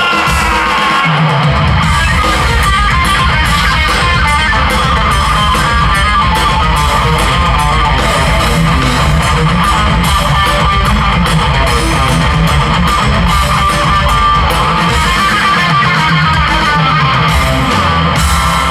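Live rock band playing loud: an electric guitar lead plays fast runs of notes over bass guitar and a steady drum beat.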